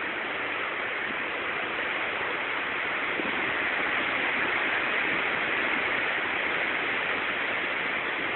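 A steady, even hiss of outdoor noise during a thunderstorm, slightly louder in the middle.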